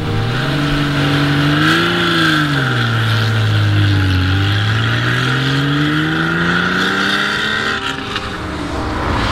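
Porsche 911 SC's air-cooled 3.0-litre flat-six engine under load. Its note rises, dips, then climbs steadily for several seconds, as in a pull through the revs.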